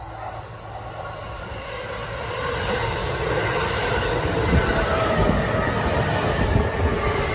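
JR E233-1000 series electric commuter train running past close by: the steady rumble of its wheels on the rails grows louder over the first three or four seconds and then holds, with some high squealing tones over it.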